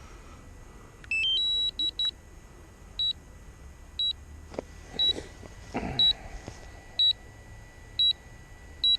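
Drone remote controller sounding a signal-loss alert: a rising three-note chime about a second in, then a short high beep about once a second. The warning follows the aircraft disconnecting from the controller.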